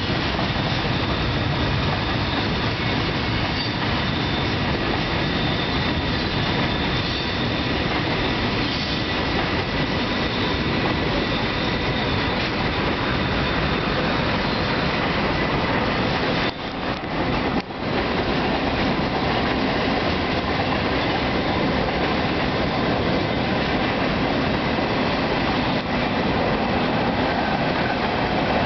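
Freight train cars rolling across a steel railway bridge: a steady, continuous noise of wheels on rail with a faint thin squeal held over it. The sound drops out briefly about two-thirds of the way through.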